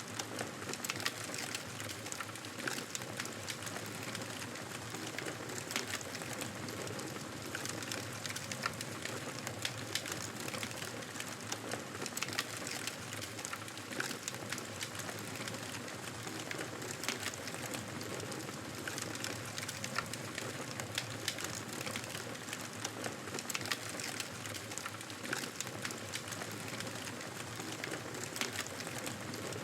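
Campfire burning, a steady hiss broken by frequent irregular crackles and pops.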